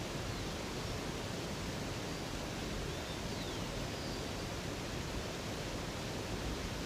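Steady rushing of a river or waterfall, with a few faint short bird chirps over it.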